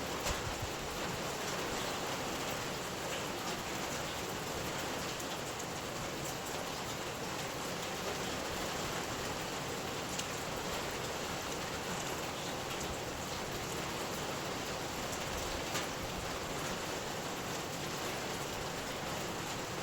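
Steady rain falling, with scattered individual drops ticking through the even hiss.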